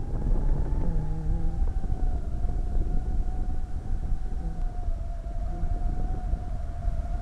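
Strong gale wind buffeting the microphone with a heavy low rumble, over a steady high howling tone that sinks slightly in pitch.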